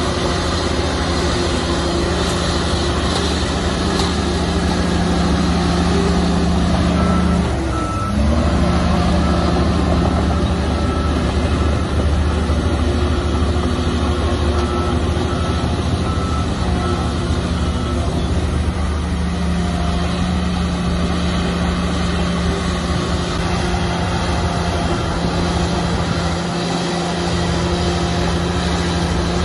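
Heavy diesel earthmoving machinery, a bulldozer and dump trucks, running steadily under load. A reversing alarm beeps for about ten seconds starting about a quarter of the way in, and the engine note dips and rises again briefly around the time the beeping starts.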